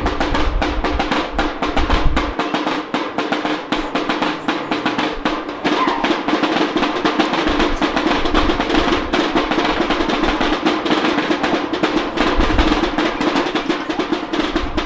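Fast, continuous drumming: a dense roll of drum strokes, with a steady ringing tone beneath.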